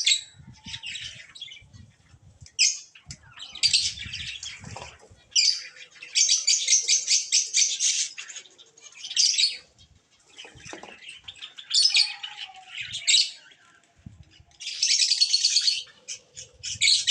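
Pigeons bathing, beating their wings in the water in repeated bursts of flapping and splashing, each a second or two long, with some bird chirps among them.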